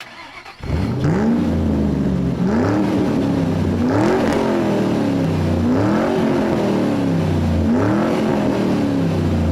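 Motorcycle engine revved repeatedly: about five throttle blips, each pitch rising quickly and then falling back, starting just under a second in.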